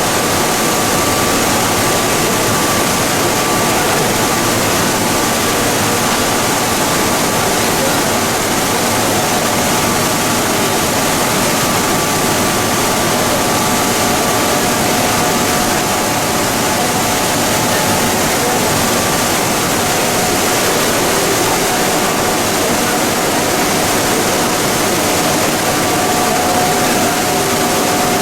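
Plastic pelletizing line machinery running steadily: a loud, even industrial rush of noise with faint steady whining tones over it.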